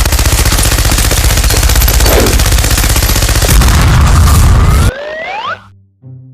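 Loud, rapid rattling noise, a fast even string of strokes like machine-gun fire or a jackhammer, that cuts off suddenly about five seconds in, followed by two quick rising whistle-like glides.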